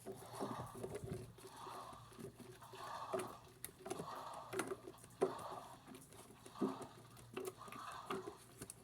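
Washing machine running a wash, water and laundry sloshing in the drum in soft swells about once a second, with a few light clicks.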